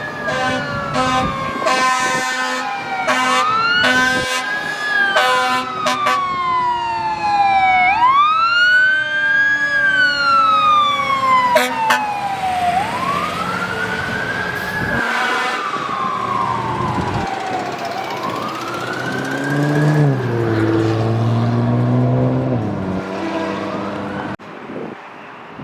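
Fire truck responding with its siren on wail: each cycle rises quickly, then falls slowly over a few seconds, again and again. In the first few seconds short horn blasts break in, and a lower, deeper tone sounds for a couple of seconds about twenty seconds in.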